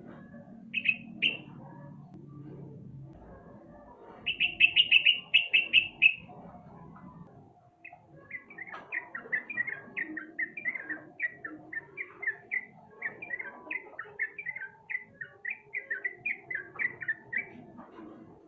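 Yellow-vented bulbul (trucukan) song in the bold, chattering 'ngebagong' style used as a bait recording to set caged bulbuls singing. A short double note comes about a second in, a loud rapid run of about ten notes follows around four to six seconds, then a long run of chattering notes at about three a second.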